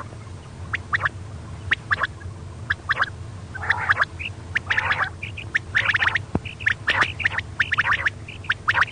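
Female quail calling, the kind of call used as a lure for hunting quail: a fast, uneven run of short, sharp chirps and harsher squawky notes, several a second, over a steady low hum.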